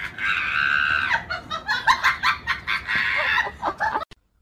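Small dog giving high-pitched squealing cries: two long squeals with shorter, choppier yelps between and after them, cutting off abruptly near the end.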